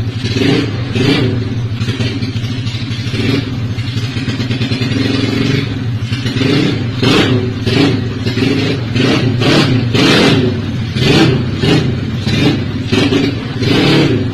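Yamaha Mio scooter's single-cylinder four-stroke engine, bored to about 130 cc, running through a CLD C7 aftermarket exhaust: idling with repeated quick throttle blips, steadier for a few seconds about two seconds in, then blipped rapidly again.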